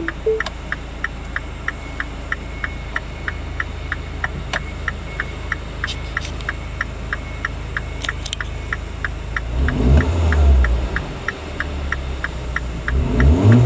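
MINI John Cooper Works R56's N14B16C 1.6-litre turbocharged four-cylinder engine idling, with a regular ticking about three times a second over it. The engine is revved up and back down twice near the end.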